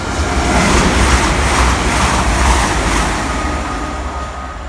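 Class 222 Meridian diesel multiple unit passing along the platform, the noise of its engines and wheels swelling to a peak about one to three seconds in and then easing off.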